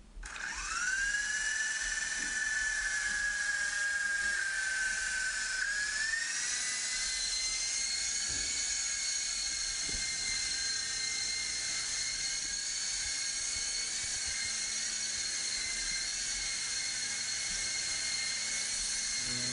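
Small electric motors of a Sigma S032 three-channel RC helicopter whining: the pitch climbs quickly as the rotors spin up, holds steady, then steps up once about six seconds in and stays there.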